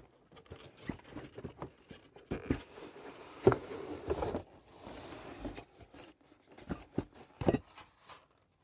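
Cardboard and plastic packaging being handled while a die-cast model truck is unboxed: scattered rustling, scraping and small clicks and knocks, with a longer rustle about five seconds in.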